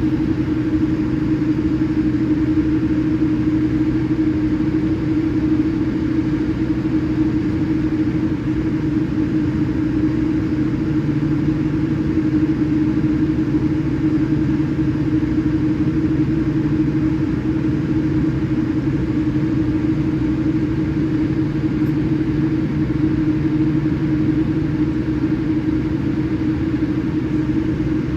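Steady cabin drone of a Boeing 787-8 airliner with its engines running, a constant hum under an even rush of noise that does not change.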